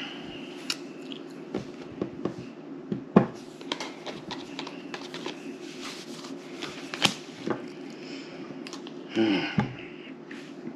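Playing cards being handled, sorted and laid down on a table: scattered light clicks and taps over a steady low hum, with a brief murmur about nine seconds in.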